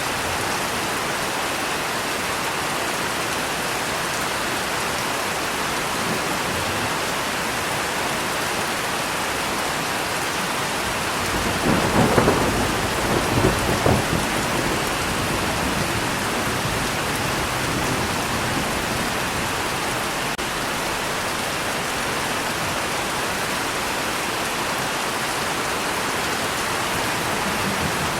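Steady heavy rain with a roll of thunder about twelve seconds in, swelling twice before fading back into the rain.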